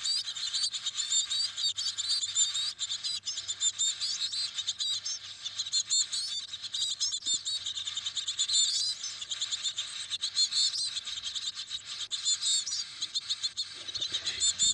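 Coal tit nestlings begging in the nest: a dense, continuous stream of high-pitched chirps.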